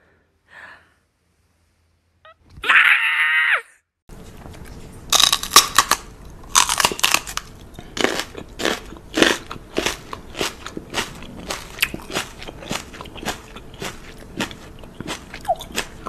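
A cat gives one short, angry cry about three seconds in. Then comes a long run of loud, irregular crunches: a person chewing crunchy food right by the microphone.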